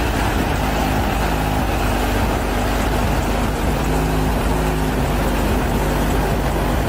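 Car subwoofers playing bass-heavy music at very high volume, distorted on the recording, the bass hard enough to make the trunk lid bang up and down.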